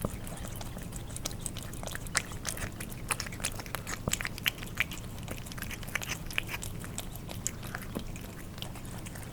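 Cats eating wet food: a rapid, irregular run of wet smacking, licking and chewing clicks from their tongues and mouths.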